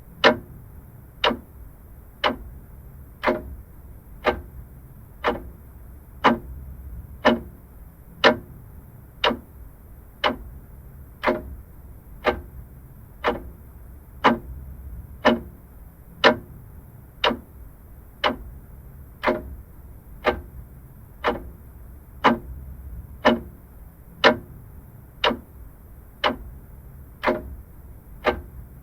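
Vintage mechanical clock ticking steadily, about one tick a second, over a faint low rumble.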